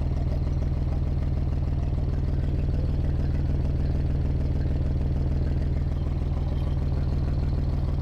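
Diesel tractor engine idling steadily, an even low running note with no change in speed.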